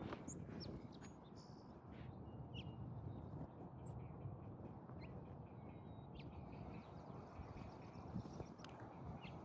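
Faint birds calling: scattered short chirps and calls, one after another, over a low steady background hiss.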